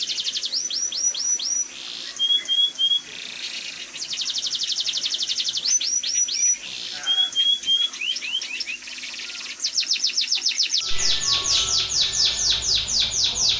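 A small cage songbird singing a canary-style song: fast runs of repeated high chirps alternating with short whistled notes and quick sweeping phrases. About eleven seconds in, a steady hiss comes in under a long, fast trill.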